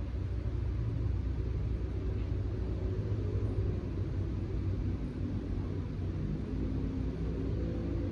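Steady low rumble of background noise with a faint hum.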